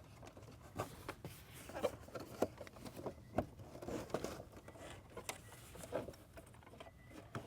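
Light, irregular clicks and rustles of a camera cable being handled and fed through a car's dashboard trim.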